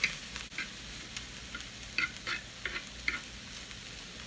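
Sliced chicken, onions and green peppers sizzling steadily on a grill, with a few short clicks and scrapes of a utensil stirring them, several of them bunched between about two and three seconds in.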